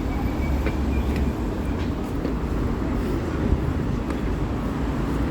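Steady rumble of city street traffic, with a few faint clicks.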